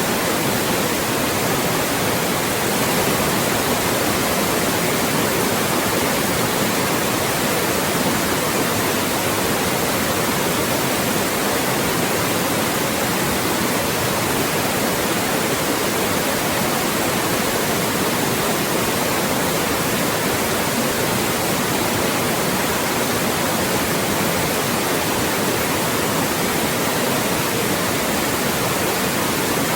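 Loud, steady white noise: an even, unchanging hiss across the whole range, a generated masking signal for blocking out voices.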